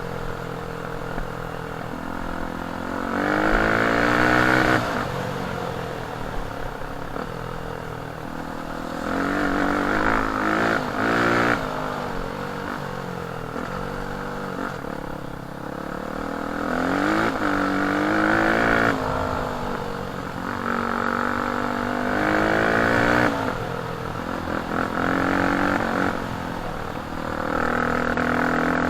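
Off-road dirt bike engine being ridden, revving up five times with the pitch climbing and then easing back off between pulls.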